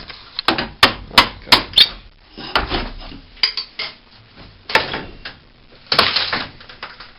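Demolition knocks on a rotted wall: a quick run of five sharp strikes, about three a second, in the first two seconds, then scattered knocks and a rattle of debris, the loudest of them about six seconds in.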